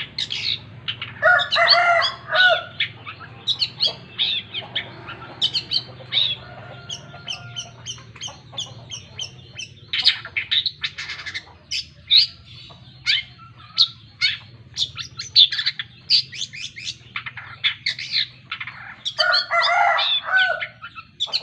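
Long-tailed shrike (cendet) singing a varied, rapid song of chirps, whistles and trills. A louder harsh, scratchy stretch comes about two seconds in and another near the end.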